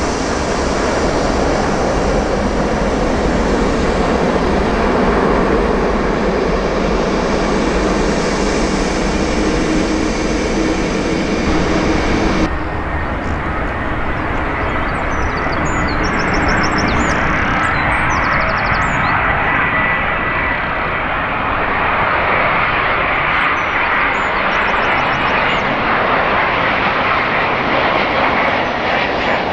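Jet airliner engine noise, a loud, steady roar with no breaks. About twelve seconds in it changes abruptly to another stretch of jet noise, as at an edit to a different aircraft.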